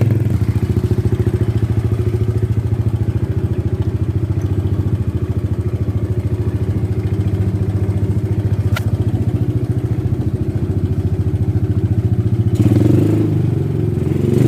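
A motorcycle engine idling steadily just after being started, still cold, with a fast even pulse. It revs up a little near the end.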